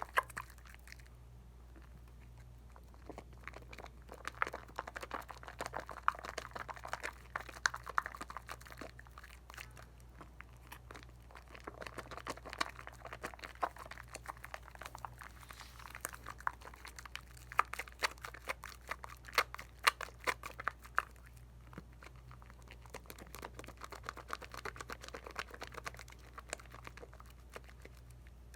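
Lather of Dial coconut soap being worked: wet squishing with dense, fine crackling of foam bubbles, coming in waves with brief quieter stretches. A faint steady low hum underneath.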